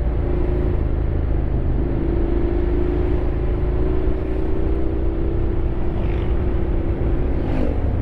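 Honda X-ADV 750's parallel-twin engine running under way, its note holding steady and rising slightly over several seconds, over a continuous low rumble.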